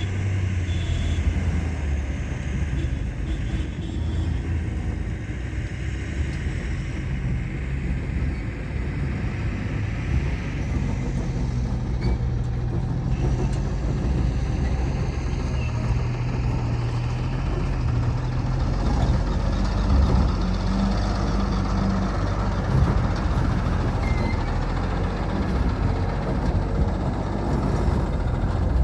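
Heavy diesel engines of a backhoe loader and a dump truck running steadily, with a low note that shifts a little in pitch as the machines work.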